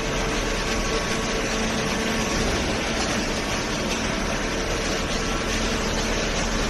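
Hydraulic cardboard baler running, its motor and pump giving a steady hum over an even mechanical noise.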